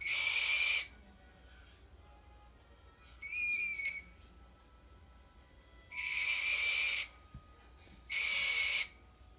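Green-cheeked conure calling: three loud calls of under a second each, near the start, about six seconds in and near the end, with a softer whistled chirp about three seconds in.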